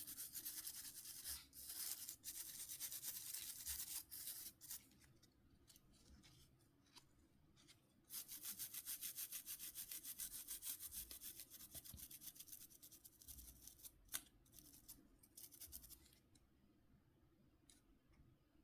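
A small brush scrubbing quickly back and forth on phone parts during cleaning. It scrubs for about four seconds, pauses, then scrubs again from about eight seconds in to about sixteen, with a single sharp click about fourteen seconds in.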